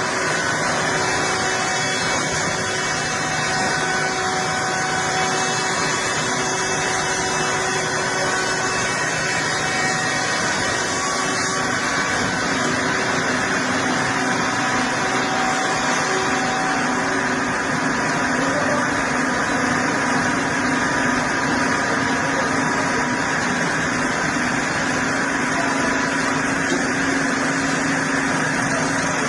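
Heavy machinery running steadily: a continuous engine-like drone with a few faint steady tones, no strokes or pauses.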